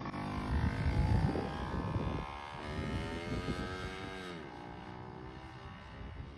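Yamaha Chappy minibike's small two-stroke single running under throttle; its pitch climbs slightly and then falls away about four seconds in as the revs drop.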